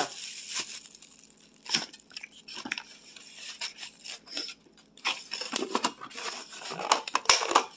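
Close-up chewing of crackers: irregular crisp crunches and clicks, coming thicker in the second half.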